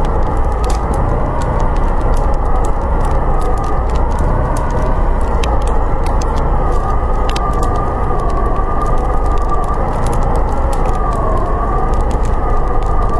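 Blizzard wind howling, a wavering whistle that slowly rises and falls in pitch over a low steady rumble, with the sharp crackles of a wood fire scattered through it.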